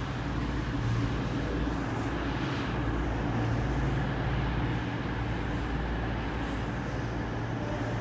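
Diesel train's engine running steadily at a low hum, over a constant rumbling noise.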